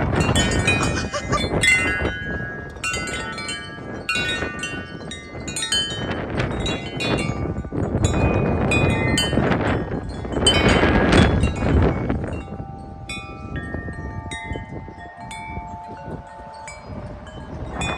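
A wind chime clanging rapidly and continuously as it swings wildly in strong, gusty wind, with wind buffeting the microphone. The gusts surge about ten seconds in, then ease, leaving a few chime tones ringing out more clearly near the end.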